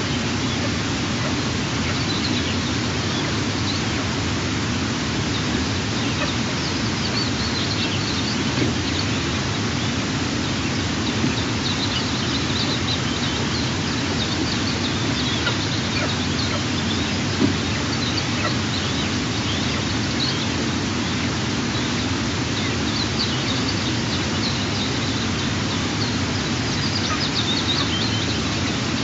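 Faint, short, high-pitched bird chirps come now and then over a steady outdoor hiss, and grow more frequent near the end.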